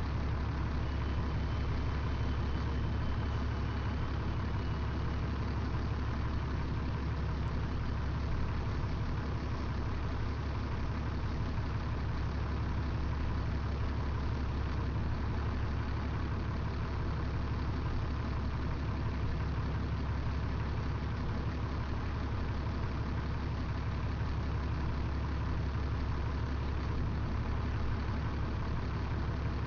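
Vehicle engine idling, a steady low rumble that doesn't change.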